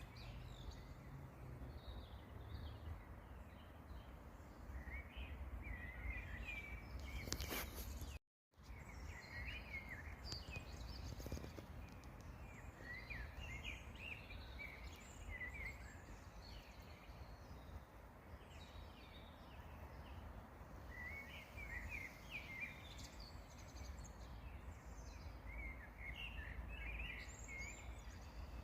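Songbirds singing in short, chirping phrases that come again and again, over a steady low rumble. A sharp click is followed by a moment of complete silence about eight seconds in.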